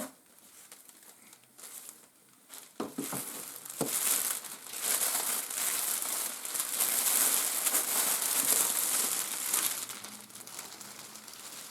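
Plastic air-pillow packing crinkling and rustling as it is handled and pulled out of a shipping box, with a few sharp clicks about three seconds in, then several seconds of dense, loud crinkling that fades near the end.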